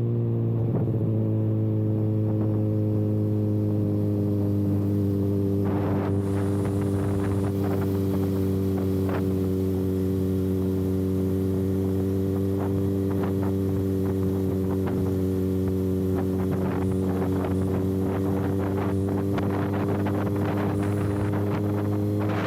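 Kawasaki ZX-6R inline-four running with its exhaust canister removed, cruising at a steady engine speed. The pitch dips slightly about a second in and then holds, and wind hiss rises from about six seconds in.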